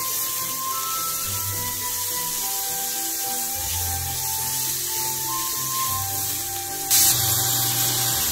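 Chopped onion sizzling in hot oil in an aluminium frying pan, stirred and scraped with a silicone spatula, under background music. The sizzling hiss gets louder about seven seconds in.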